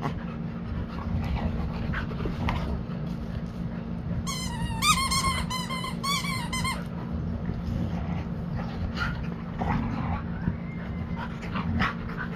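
Two large dogs, a husky and a Labrador, play-fighting, with panting and scuffling throughout. About four seconds in comes a run of high, wavering squeals lasting a couple of seconds.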